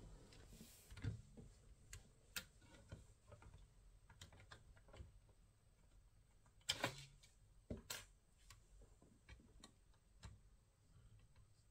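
Faint, irregular light clicks and taps of small hard parts being handled, as when working inside a laptop, with a louder short clatter about seven seconds in.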